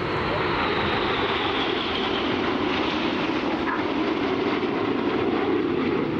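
BAE Hawk T1 jets flying overhead: a steady jet roar with a high whine that slowly falls in pitch over the first couple of seconds.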